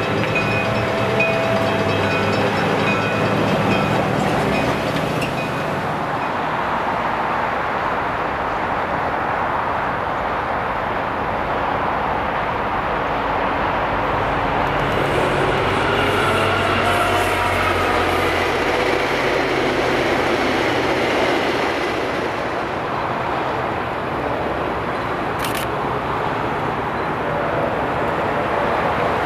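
Rail vehicles running on track. For the first few seconds a diesel engine hums steadily, then a diesel-hauled passenger train rumbles with its engines and wheels on the rails, with a gliding tone partway through.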